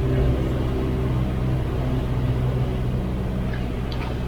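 Cessna 172's piston engine and propeller running at low power, a steady drone heard from inside the cabin.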